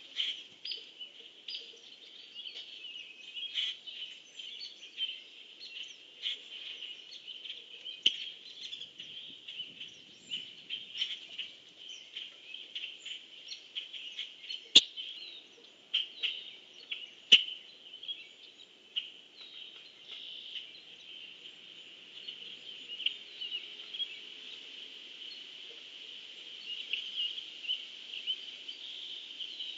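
Small birds chirping and calling continuously, many short notes overlapping, with a few sharp clicks, the loudest about halfway through.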